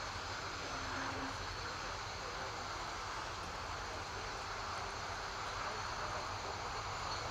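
Steady, distant jet engine noise from aircraft on the airfield.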